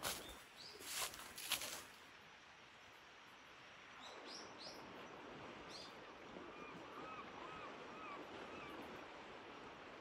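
Faint outdoor background with a few soft knocks or scuffs in the first two seconds. Past the middle, a small bird calls with a quick run of about five short chirps.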